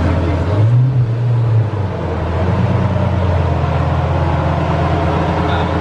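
Lamborghini Gallardo's V10 engine idling, given a short throttle blip about half a second in: the pitch rises, holds for about a second, then falls back to a steady idle.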